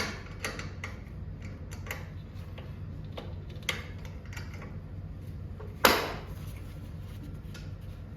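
Scattered light clicks and metallic knocks from hand work on garage door hardware, one sharper knock about six seconds in, over a steady low hum.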